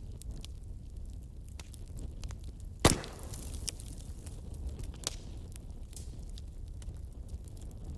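Wood fire burning in a fireplace: a steady low roar with scattered small crackles, and one loud pop a little under three seconds in.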